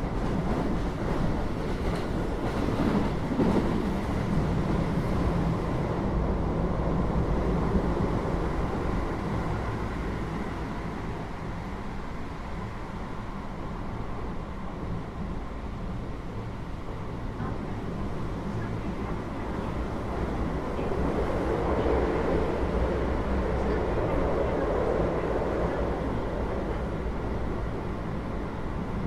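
Keio 8000 series electric train with GTO-VVVF traction control, heard inside the car above its main controller: a steady running rumble with a few steady low hum tones. The rushing noise swells for a few seconds about three-quarters of the way through.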